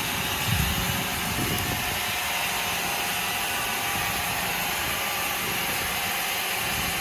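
Sawmill machinery running with a steady mechanical noise.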